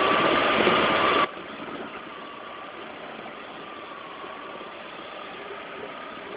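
Audi 80's 2.0-litre, 115 hp engine idling, a steady running noise with a thin high whine over it; a little over a second in the level drops abruptly and it runs on much quieter.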